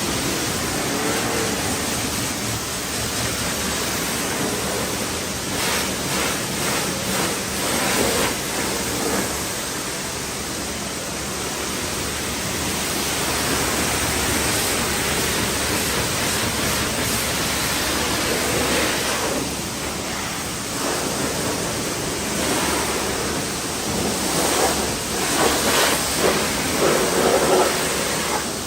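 Pressure washer spraying water onto a car: a steady hiss of spray that swells and dips as the jet moves over the bodywork.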